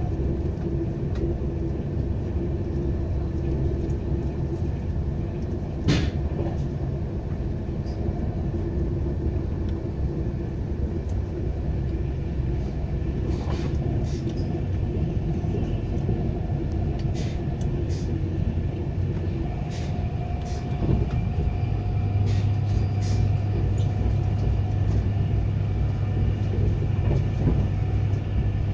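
Steady rumble of a passenger train running at speed, heard from inside the carriage, with a sharp knock about six seconds in and scattered faint clicks. A low hum grows stronger in the last third.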